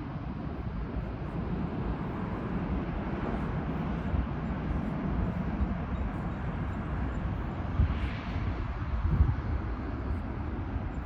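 Jet airliner engine noise, a steady rumble with a couple of brief louder bumps in the second half.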